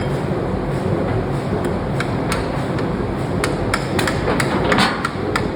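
Hammer striking metal in a forge: about ten irregular, ringing blows that begin about two seconds in and come faster toward the end, over a steady low machinery hum. A brief hiss comes near the end.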